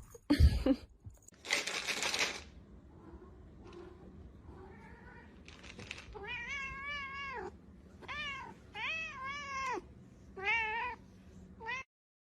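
A cat meowing: four long, arched meows, each rising then falling in pitch, with a short fifth one just before the end. Near the start there are a couple of knocks and a brief rustling noise.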